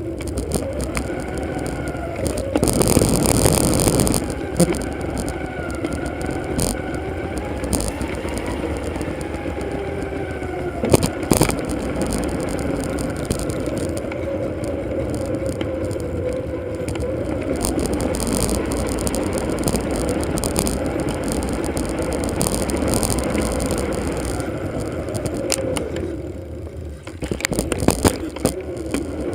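Riding noise from a bicycle, played back four times faster: continuous pitched-up wind and road noise with a wavering hum, broken by a few sharp knocks and rattles.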